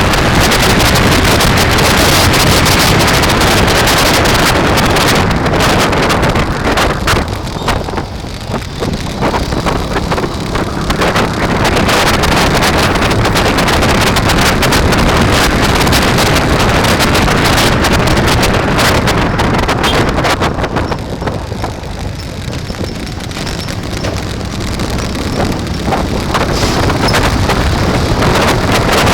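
Wind rushing over the microphone of a camera on a moving bike, a loud, steady roar that eases off briefly twice.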